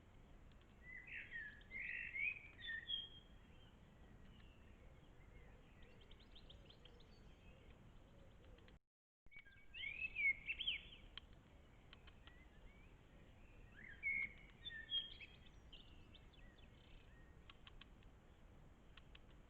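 Songbirds singing in short bursts of chirping, warbling phrases, three times, over a faint background hiss, with scattered light ticks in between.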